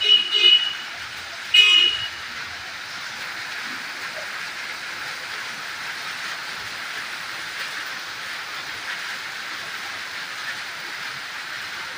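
Three short vehicle horn toots in the first two seconds: two quick ones, then a slightly longer one. After that comes the steady hiss of heavy rain falling.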